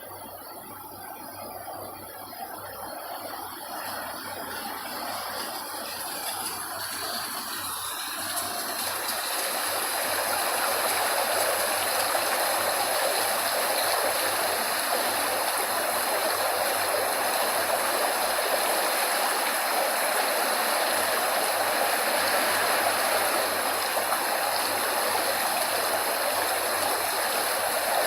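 Rushing water of a stream or waterfall, a steady hiss that fades in over about the first ten seconds and then holds even.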